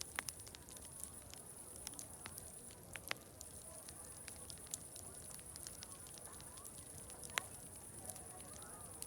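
Wood fire crackling, with irregular sharp pops, the loudest about three seconds in and again about seven seconds in, over a steady high-pitched hiss. Faint distant crowd chatter runs underneath.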